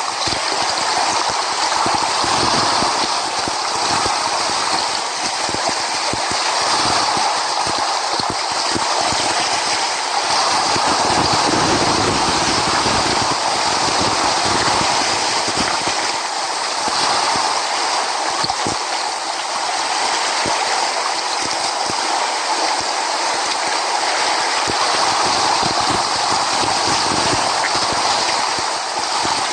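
Steady rush of sea surf, with wind buffeting the microphone in uneven low rumbles.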